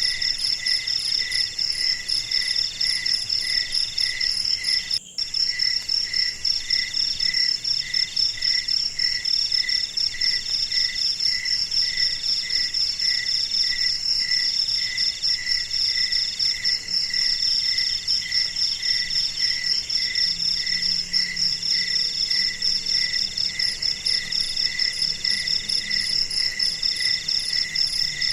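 A chorus of night insects chirping steadily, several kinds layered: a high continuous pulsing trill, a lower chirp repeating about twice a second, and a mid-pitched trill in phrases about a second and a half long. The sound drops out for an instant about five seconds in.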